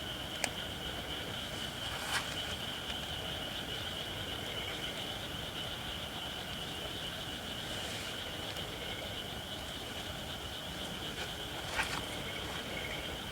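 Campfire of Japanese white oak logs burning, with a few sharp pops: about half a second in, at about two seconds and near the end. Under it runs a steady high-pitched hiss, which the uploader puts down to the oak not yet being fully dried.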